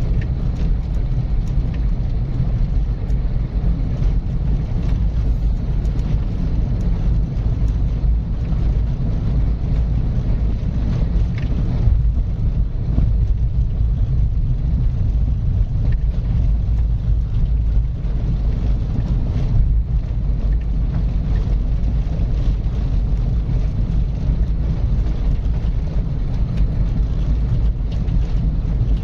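Car driving at a steady, smooth pace: a continuous low rumble of road and engine noise, with a few faint ticks.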